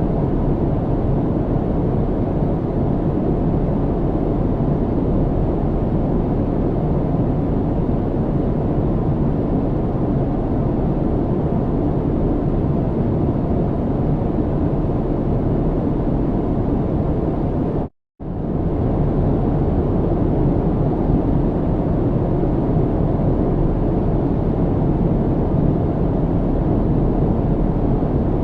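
Steady aircraft cabin noise, a low, even rush. About two-thirds of the way through, the sound cuts out completely for a split second and then resumes.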